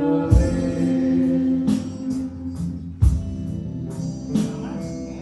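Band playing a slow song: a singer holds the word "robe" over sustained chords, with a deep drum hit about every two and a half seconds and lighter high ticks between them.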